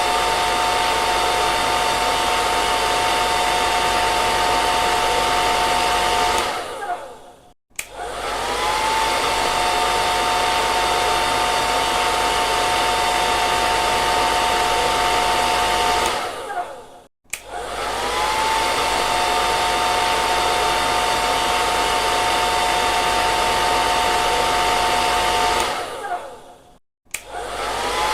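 Electric hair dryer blowing with a steady rush of air and a high motor whine. About every nine seconds it is switched off, winds down with a falling whine into a second of quiet, then starts again, the whine rising back to pitch.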